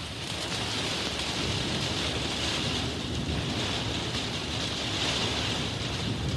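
Heavy thunderstorm rain pouring steadily, with wind and a low, steady rumble underneath.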